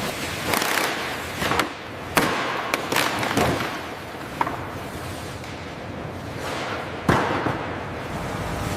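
Metalwork on a corroded aircraft structure: a steady hiss broken by irregular sharp cracks and knocks, the loudest about two seconds in and again near the end.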